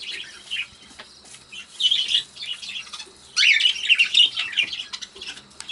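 Several budgerigars chirping and warbling in fast, scratchy chatter, with two louder bursts about two seconds and three and a half seconds in.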